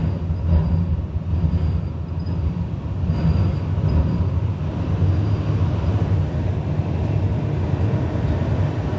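Pittsburgh T light-rail car running, heard from inside the car: a steady low rumble of wheels and running gear, with a faint high tone that comes and goes.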